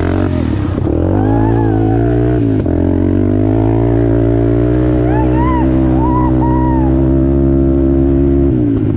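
Off-road vehicle engine running hard under riding load. Its pitch drops briefly about half a second in and again near 3 s, as with gear shifts, then holds steady before easing off near the end.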